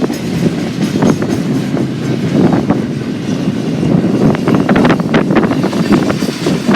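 Freight train cars rolling past on the main line, a steady rumble with the wheels clicking over the rail joints, thickest about four to five seconds in. Wind buffets the microphone.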